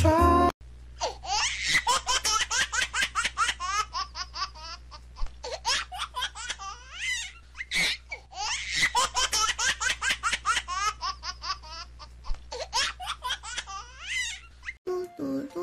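High-pitched human laughter in quick repeated bursts, in two long bouts of nearly the same pattern, over a low steady hum.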